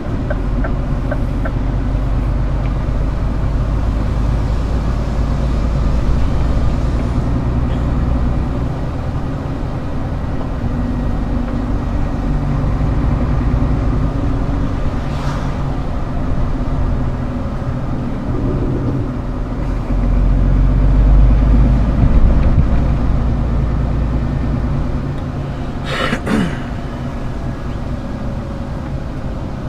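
Diesel engine of a Scania R410 concrete truck running steadily, growing louder for a few seconds past the middle. A short sharp hiss of air comes near the end.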